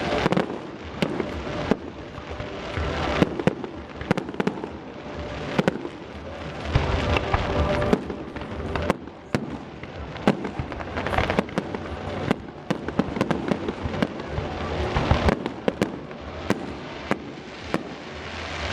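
Aerial fireworks going off: a rapid, irregular series of shell bursts and sharp bangs, with crackling between them.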